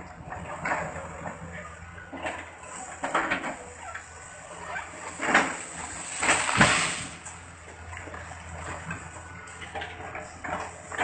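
Heavy machine's diesel engine running steadily under repeated irregular knocking and crunching, loudest about five to seven seconds in, as it chips up felled oil palm trunks.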